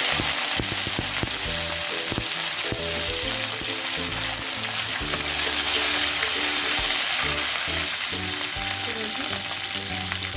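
Curry leaves sizzling hard in hot oil with spluttering mustard and cumin seeds, the tempering for a beetroot stir-fry; a steady, loud sizzle throughout.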